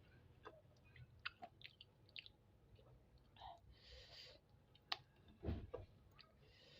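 Faint, sparse chewing of spicy chicken feet: wet mouth clicks and smacks spaced irregularly, with a low soft knock about five and a half seconds in.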